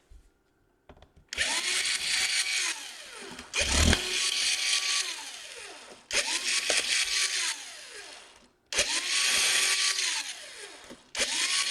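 Electric screwdriver backing out laptop case screws, run in five short spells of about two seconds each: every spell spins up to a steady whine, then winds down with a falling pitch.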